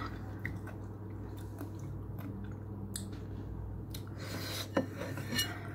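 A person chewing food with the mouth close to the microphone: small wet clicks and smacks, a little busier about four seconds in, over a steady low hum.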